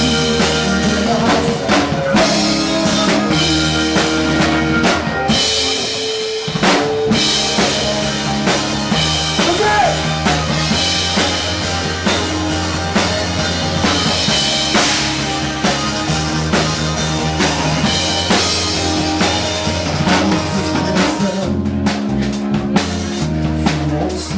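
Band music with a full drum kit (kick, snare, rimshots) over a sustained bass line. About six seconds in, the bass and kick drop out for around a second before the full band comes back in.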